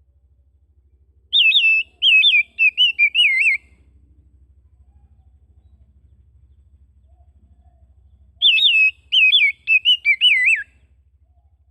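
Oriental magpie-robin (kacer) singing: a phrase of quick, looping whistled notes, given twice about five seconds apart.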